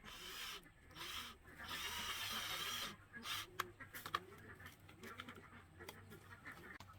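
Hand tool rasping against bamboo in three strokes, the last and longest about a second, followed by a run of light knocks and clicks.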